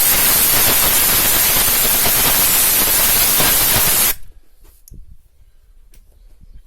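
Compressed air blowing out a diesel injector's seat to clear dirt from it: a loud, steady hiss that cuts off sharply about four seconds in, followed by a few faint clicks.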